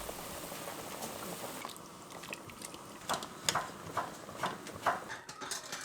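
A steady hiss that stops about two seconds in, followed by scattered light clinks and taps of utensils and dishes, about six in three seconds.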